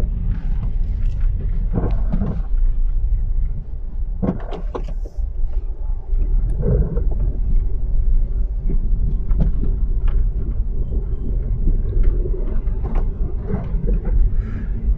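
Car driving on snow-covered city streets, heard from inside the cabin: a steady low road and engine rumble with scattered short knocks and clicks.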